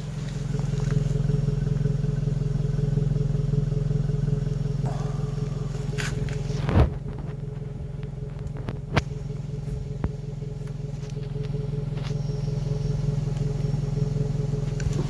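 Suzuki Escudo's exhaust with the engine idling steadily, a constant low drone. Two short knocks stand out, about seven and nine seconds in.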